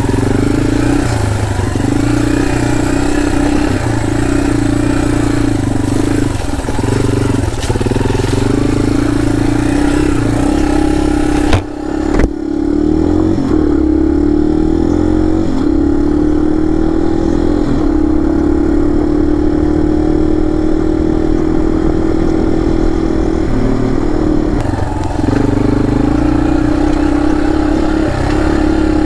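Dirt bike engine running and revving as the bike is ridden, its pitch rising and falling with the throttle. About twelve seconds in the sound breaks off suddenly and comes back duller, brightening again near twenty-five seconds.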